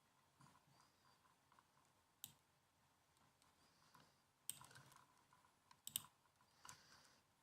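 Laptop keyboard keys being typed on, faint and sparse: a single key click about two seconds in, then a short run of quick key clicks from about four and a half seconds on.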